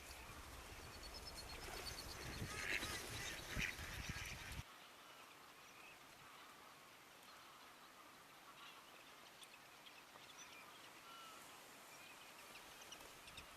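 A flock of wintering waterfowl, geese and ducks, calling repeatedly. About four and a half seconds in, a low background rumble cuts off abruptly and the calls continue more faintly.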